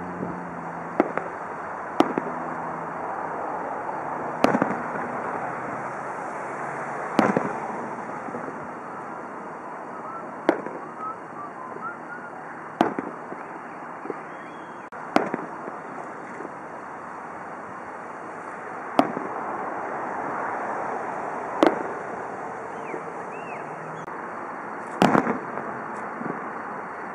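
Aerial fireworks bursting, a sharp bang every two to three seconds, some of them doubled, over a steady background hiss.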